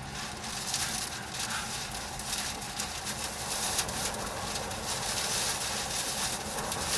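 Strong storm wind from a nearby tornado rushing steadily, full of many short sharp crackles and taps.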